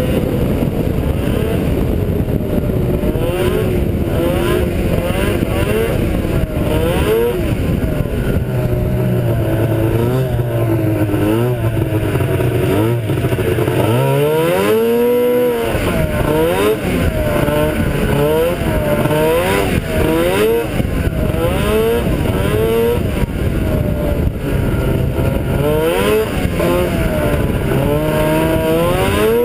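Ski-Doo Blizzard 7500 snowmobile's two-stroke engine running under way, revving up and dropping back again and again, with one long climb in pitch about halfway through. The clutches have just been reworked after a belt blew and the secondary was found damaged.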